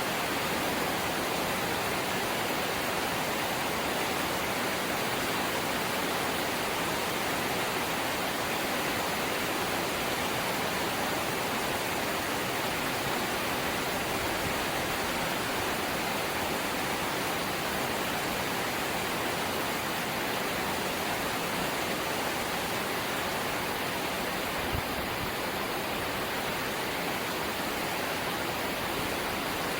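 Steady, heavy rain drumming on a corrugated zinc (seng) house roof, a dense even hiss of drops. A single brief knock near the end.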